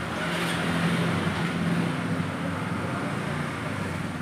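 A motorcycle engine running steadily, getting a little louder for a couple of seconds after the start.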